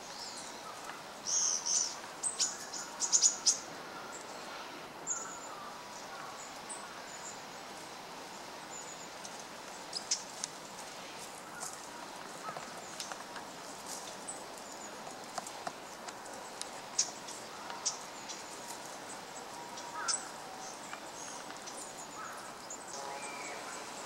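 Short, thin, high-pitched bird calls, several close together a second or two in and then single ones scattered throughout, over a faint steady outdoor background.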